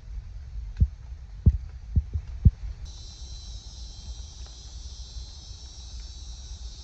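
A few dull low thumps over a low rumble in the first half. From about three seconds in, a steady high insect chirring starts and goes on.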